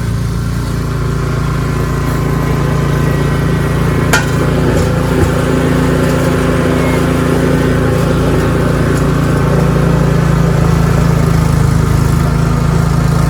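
Ariens 624E snowblower engine running steadily, with a single sharp click about four seconds in.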